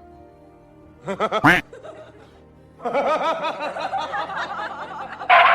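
Background music with bursts of laughter: a short run of quick rising laughs about a second in, then a longer stretch of repeated laughing from about three seconds in.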